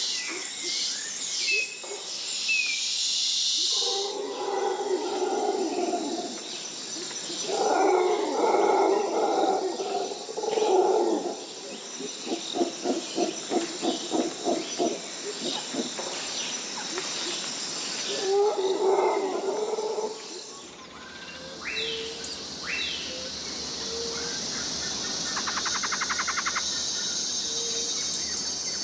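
Tropical rainforest ambience. High bird calls open it, then several bouts of deep animal calls, including a fast pulsing series of about four calls a second. About two-thirds of the way in it changes abruptly to a steady high insect buzz with scattered short bird chirps.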